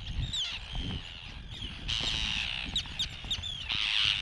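A colony of Arctic terns calling: many overlapping harsh, grating calls mixed with short, sharply falling cries.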